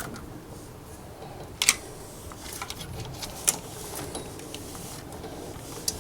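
Handling noise from parts and tools being worked on: a few sharp clicks and taps, about a second and a half in, near the middle and near the end, over a low steady background.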